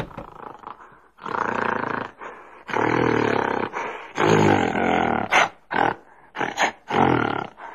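Gorilla vocalizing: three long, rough roars of about a second each, then a quicker string of short grunts.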